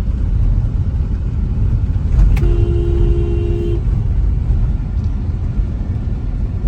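Steady low rumble of a car driving, engine and tyre noise heard from inside the vehicle. About two and a half seconds in, a vehicle horn sounds once, a steady two-note toot of about a second and a half.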